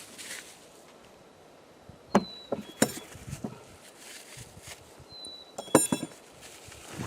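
A few knocks and light metallic clinks as packed cultivator parts are handled, a group about two to three seconds in and a sharper cluster near six seconds. Short, thin, high whistles sound briefly between them.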